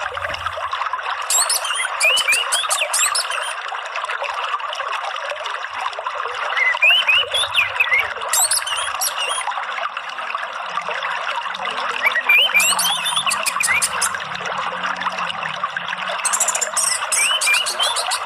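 Steady rush of running water, with a songbird calling over it in four short bouts of quick high chirps and slurred whistles. A water-sound therapy track played to caged songbirds.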